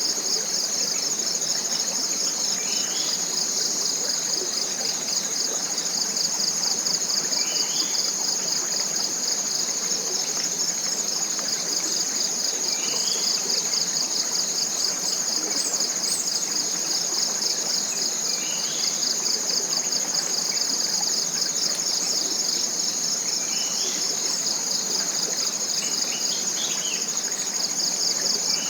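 Dense chorus of forest insects, a steady shrill buzz with a fast pulsing beat, over the even rush of a small stream. A faint short rising call repeats about every five seconds.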